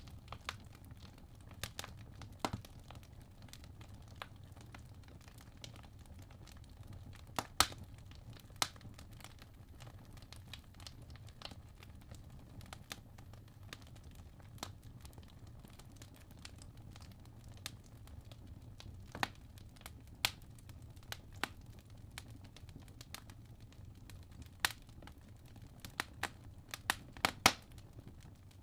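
Wood logs burning in a fireplace, crackling: irregular sharp pops over a low steady rumble, with the loudest pops about a quarter of the way in and a quick cluster near the end.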